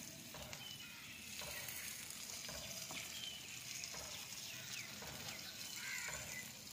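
Faint sizzling of beaten egg and potatoes frying in a pan over a wood fire, with a few soft clicks.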